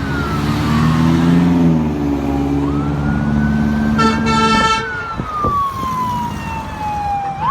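Fire truck siren wailing, its pitch sliding slowly down and back up, over the engine of the truck passing close. About four seconds in, one short air horn blast of under a second.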